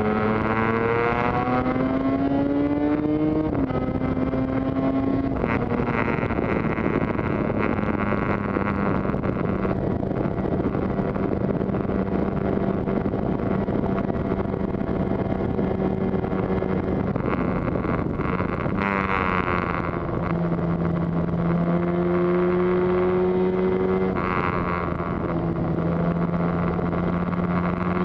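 Yamaha TZR250 two-stroke twin engine under way, revving up through a gear at the start, dropping in pitch at an upshift a few seconds in, then running at a steady cruise with a gentle rise in revs past the middle, over wind rush.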